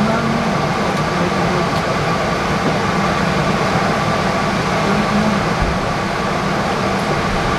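Steady cabin noise inside a Boeing 777-300 airliner: an even rumble and hiss of the air-conditioning airflow and aircraft systems, with a faint steady tone.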